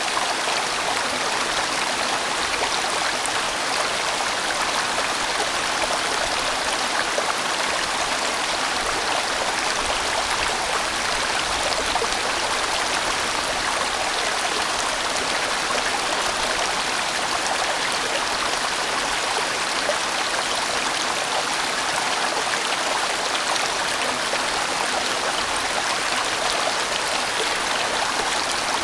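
Steady rush of water from a sizeable, winding mountain stream flowing over rocks.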